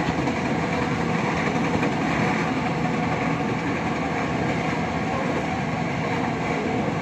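Two passenger trains running side by side at speed: a steady, dense rumble and rail noise from wheels on track, with a constant low hum under it.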